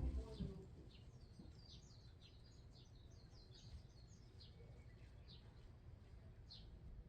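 Small birds chirping faintly: many short, high chirps, each dropping in pitch, in quick irregular runs, over a low background rumble.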